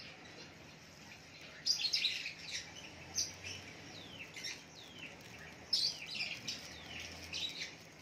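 Birds chirping in short scattered bursts, a few calls sliding downward in pitch, with quieter gaps between.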